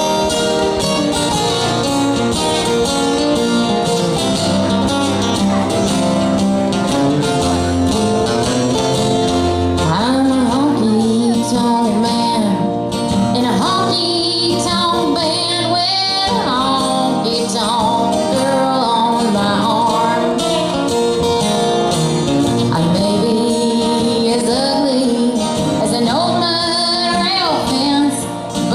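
Live country band playing, led by acoustic guitar. About ten seconds in, a woman's lead vocal comes in and sings over the band.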